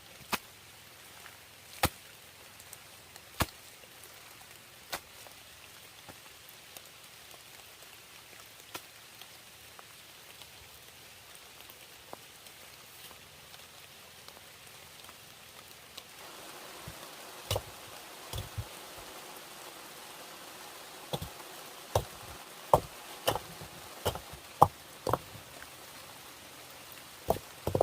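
Rain falling steadily, with sharp knocks of a tool striking wood during shelter building. The knocks come about every second and a half at first, then thicken into an irregular run in the second half, when the rain noise also grows louder.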